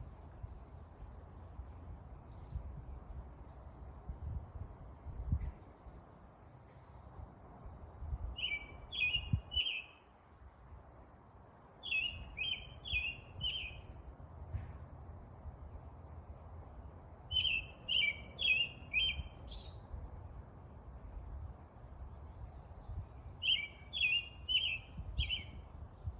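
Birds chirping: thin, high chirps repeat throughout, while another bird sings a short phrase of three or four notes four times, every five or six seconds. A low, steady rumble runs underneath.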